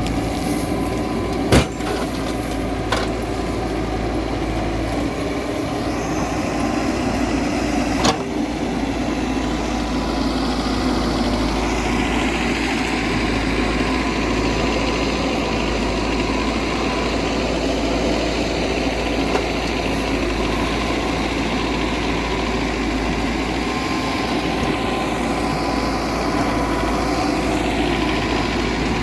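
Diesel engine of a Mahindra EarthMaster backhoe loader running steadily, with a few sharp knocks in the first eight seconds.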